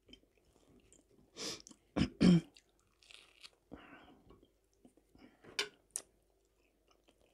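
Close-miked chewing of food, heard as a string of short, irregular wet and crunchy mouth sounds, loudest about two seconds in. A fork clicks twice against the plate near the end.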